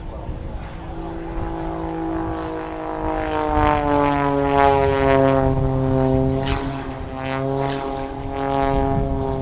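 Jet Pitts aerobatic biplane flying past, its piston engine and propeller giving a buzzing drone. The drone grows louder towards the middle and its pitch slowly falls as the aircraft goes by.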